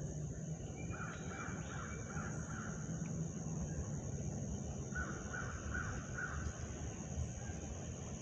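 A bird calling in two runs of about four short, harsh calls, the first about a second in and the second about five seconds in, over a steady outdoor hiss.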